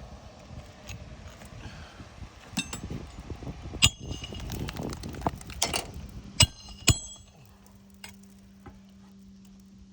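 Steel roofing hand tools working on asphalt shingles: several sharp, ringing metallic clinks, the snake bar struck with a hammer, with scraping between them. A low steady hum comes in after about seven seconds.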